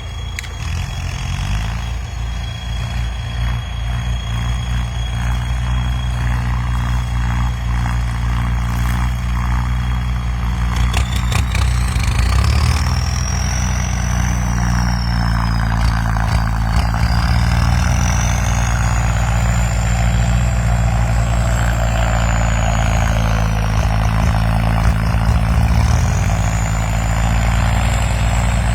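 Tractor diesel engine running steadily, growing a little louder over the first several seconds. From about halfway through, a high whine sweeps up and down in pitch a few times over the engine.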